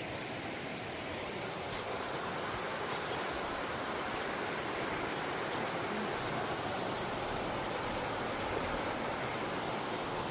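Creek water rushing steadily past the old dam ruins, an even, unbroken sound of flowing water.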